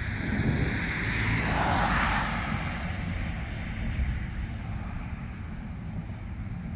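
Low rumble of thunder following a nearby lightning flash, with a brief swell of hiss about a second or two in.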